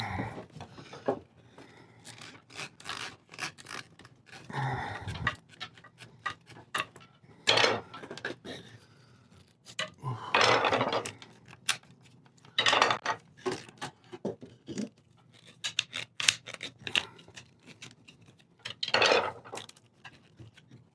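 Loose wooden parts of an old chair being worked out of their joints by hand: irregular scraping and rubbing of wood on wood, with scattered clicks and knocks.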